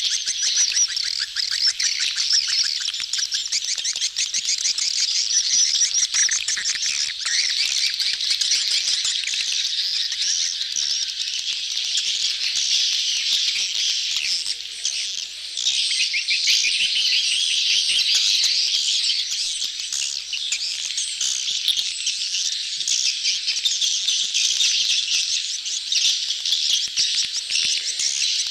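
A dense crowd of edible-nest swiftlets twittering without pause, a continuous mass of rapid high-pitched chirps. These are the calls of a crowded colony in breeding condition, as used in swiftlet-house lure recordings.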